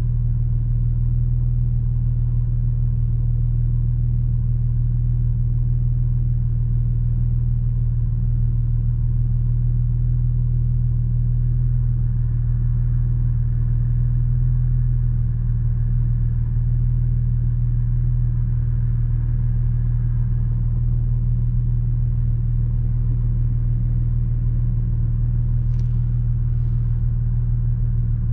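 Porsche Boxster 986's flat-six engine running at steady revs while cruising, a constant low drone with no revving. Two brief faint clicks come near the end.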